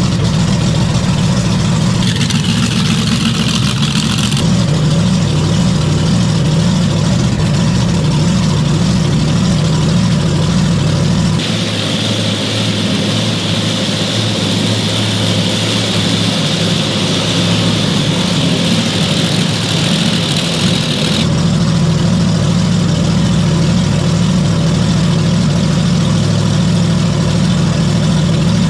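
Large vehicle engine idling steadily. A high hiss rides over it for about ten seconds in the middle.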